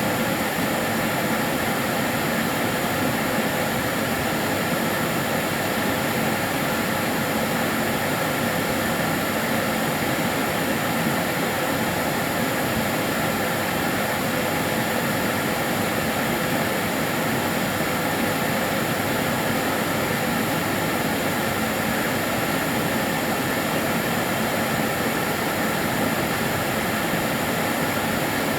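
Karcher DS 6 Premium water-filter vacuum cleaner running steadily, a constant whooshing motor-and-airflow noise with a few faint steady whining tones in it.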